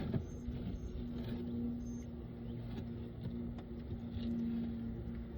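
Honeybees buzzing in a steady, wavering hum around an opened long hive, with a few faint clicks of hive parts being handled.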